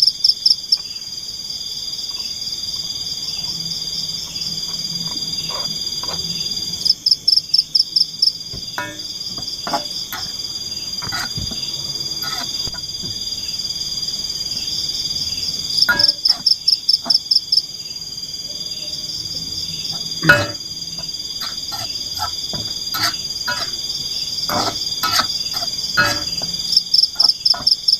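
Tropical forest wildlife chorus: a steady high insect drone, broken about every nine seconds by a burst of rapid pulsed calls, with scattered sharp ticks in between.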